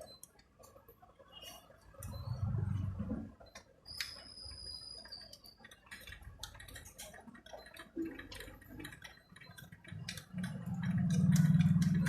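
Scattered small clicks and taps of hands and tools working on a photocopier's fixing unit. A low hum comes in twice, briefly about two seconds in and louder near the end, and a short high steady tone sounds about four seconds in.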